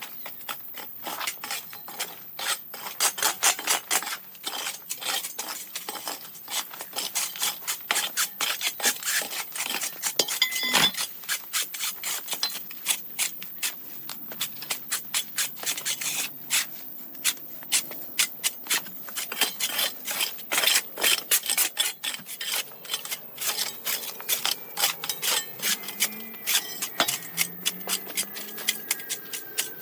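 A stiff brush scrubbing a hard surface in quick, irregular rasping strokes, several a second.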